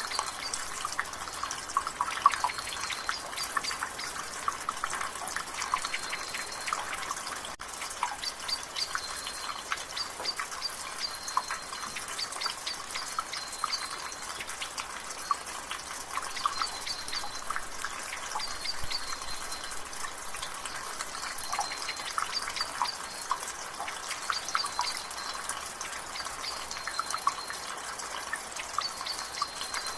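Water dripping steadily from a rain gutter in quick, irregular drips over the light hiss of drizzle. A bird repeats a short, high, even note every couple of seconds.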